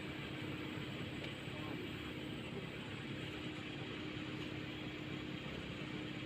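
Steady vehicle rumble and road noise, with a faint steady hum running through it.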